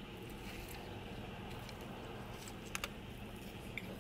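Quiet chewing of a soft glazed honey cruller, with two faint mouth clicks a little under three seconds in, over a low steady hum.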